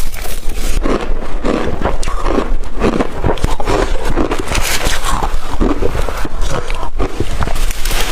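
Close-miked chewing of blender-crushed ice: a steady run of wet crunches, one after another about twice a second, with swallowing between bites.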